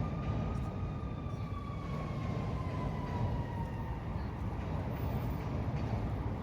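Low rumble of a passing train with a high, steady squeal that slowly falls in pitch and fades out about four seconds in.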